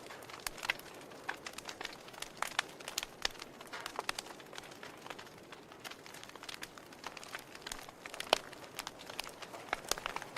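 Wood fire crackling in a fireplace: irregular snaps and pops from burning logs over a soft hiss, with one sharper, louder pop about eight seconds in.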